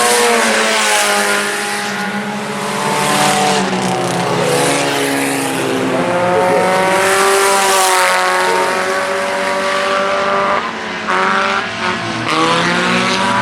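Several IMCA Sport Compact race cars' four-cylinder engines running hard in a pack, their pitch rising and falling as the drivers lift and get back on the throttle.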